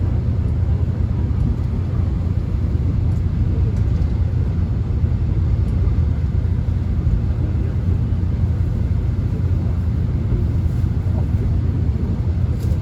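Steady low rumble of a subway train running, heard from inside the passenger car.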